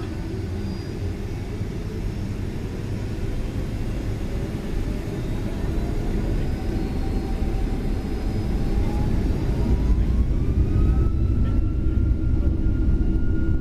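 Boeing 757-200 jet engines heard inside the cabin, spooling up for takeoff: a whine rises steadily in pitch over several seconds and then levels off, over a deep rumble that grows louder.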